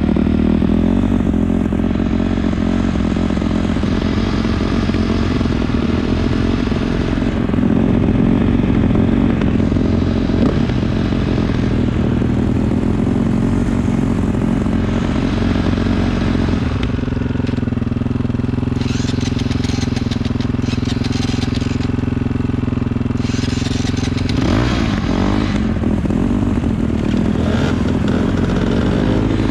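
Dirt bike engine running under changing throttle while riding. It holds a steady note for several seconds about halfway through, then revs up again.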